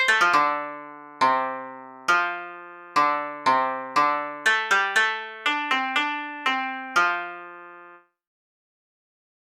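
Short melody played on a piano-like keyboard: about fifteen struck notes, each ringing and fading, some in quick pairs, stopping about eight seconds in.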